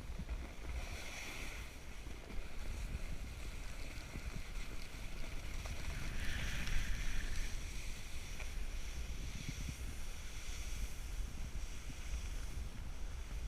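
Wind buffeting the microphone as a steady low rumble, with a hiss that swells twice, about a second in and again around six seconds in.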